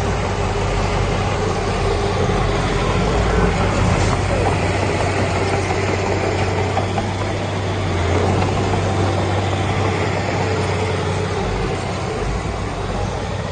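Heavy diesel engine running steadily, a low even hum with a slight swell about two-thirds of the way through.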